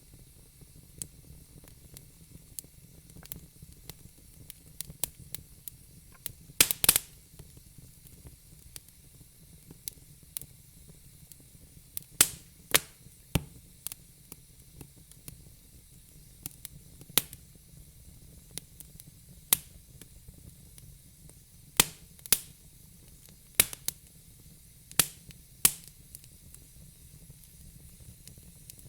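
Wood fire crackling: irregular sharp pops and snaps of burning logs over a low steady hiss, a few louder cracks standing out.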